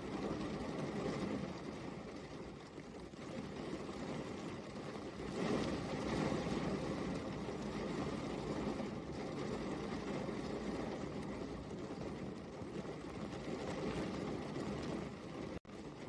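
Steady rain falling, a dense hiss that swells and eases, with a split-second dropout near the end.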